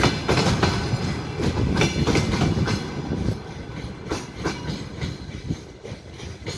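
Railway cars of a passing train rolling over rail joints, a fast clickety-clack of wheel clicks over a rumble. It is loudest for about the first three seconds, then grows quieter as the train moves away.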